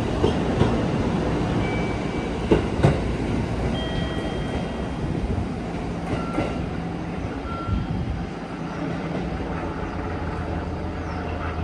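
JR Central 313 series electric train pulling out, wheels rumbling and clacking over rail joints, with a few sharp clicks in the first three seconds. The sound eases off after about eight seconds.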